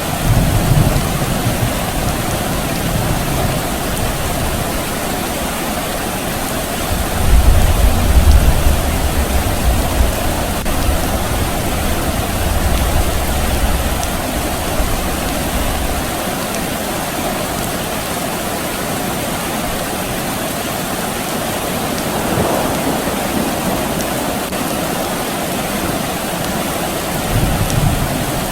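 Steady rain falling, with distant thunder rumbling low under it: a short rumble at the start, a longer, louder roll about seven seconds in that fades over several seconds, and another brief rumble near the end.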